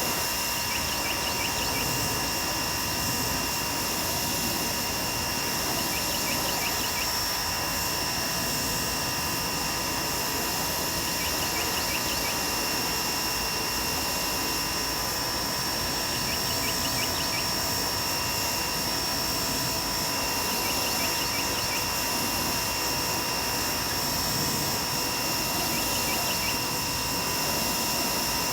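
DeWalt 2100 PSI electric pressure washer running steadily, its high-pressure water jet hissing against the deck boards, with a thin constant whine over the spray.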